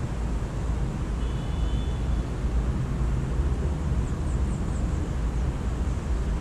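Steady low rumble of background noise, with a short steady bird whistle a little over a second in and a few quick, high bird chirps around four seconds in.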